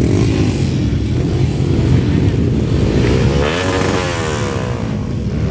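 Several trail motorcycles' engines running together in a dense, steady rumble. About three and a half seconds in, one engine's pitch rises and falls.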